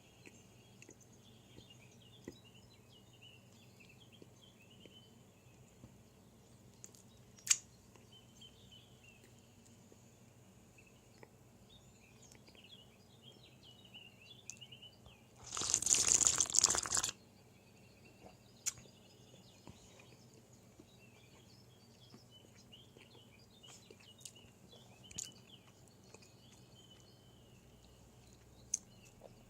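Faint small-bird chirping, with a loud crunching rustle lasting about a second and a half just past the middle and a few sharp clicks.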